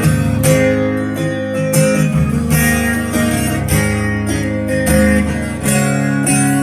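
Instrumental opening of a song: guitar chords strummed, with a strum about every second.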